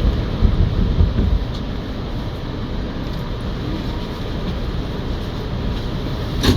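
Steady low rumble inside an R211A subway car on the C line, heaviest in the first second or so, with one sharp click near the end.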